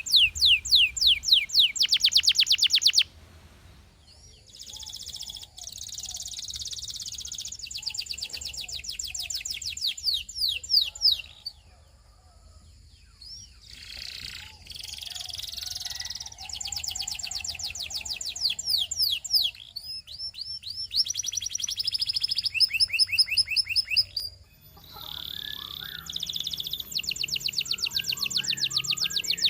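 Russian singing canary singing long, fast trills of rapidly repeated down-slurred notes, in phrases broken by short pauses.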